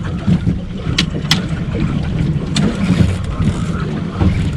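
Steady low rumble aboard a small aluminium fishing boat at sea, with a few sharp clicks, two of them about a second in.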